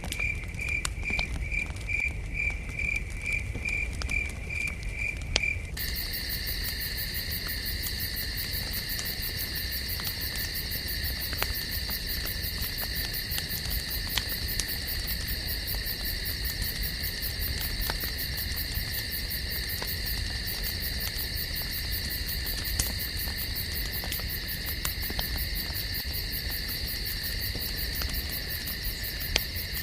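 Campfire crackling with sparse sharp pops over a chorus of night insects such as crickets. For the first six seconds the insect call is a pulsing chirp, about three a second; then it changes abruptly to a steady, denser trill.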